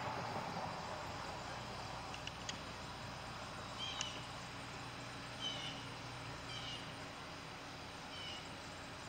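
A bird calling: short high calls, about four of them, one every one to two seconds from about four seconds in. A low vehicle hum fades away over the first half.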